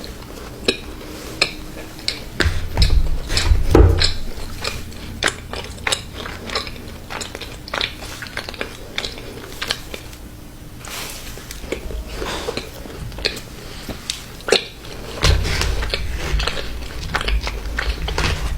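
Close-miked eating sounds of someone biting and chewing cookies, with many sharp clicks and taps like cutlery on a plate. Low, heavy thumps come about three seconds in and again near the end.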